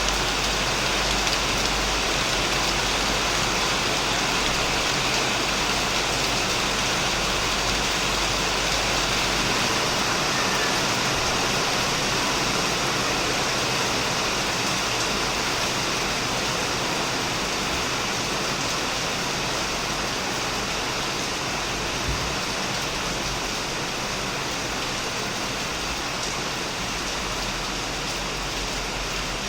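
Heavy rain falling on a shed roof, a dense, steady hiss of drops that eases slightly toward the end.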